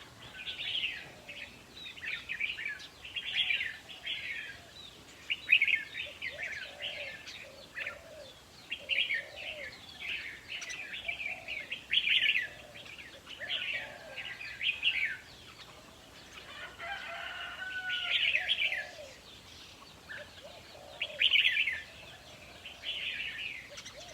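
Red-whiskered bulbuls singing: short, quick warbled phrases that follow one another every second or so.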